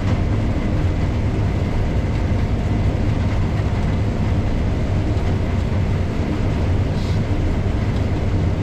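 Case IH 7230 combine running steadily, heard as a constant low drone with a broad mechanical rumble.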